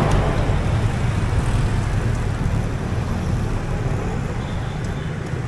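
Motorbike engine running and city street traffic heard from a moving motorbike, a steady low rumble that slowly grows quieter.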